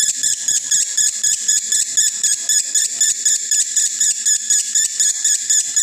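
Male Konslet lovebird in breeding condition chattering in one long unbroken trill, with rapid shrill notes repeating about six or seven times a second.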